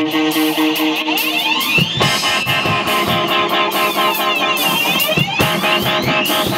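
Rock band playing an instrumental passage on electric guitars, with held guitar notes and no singing.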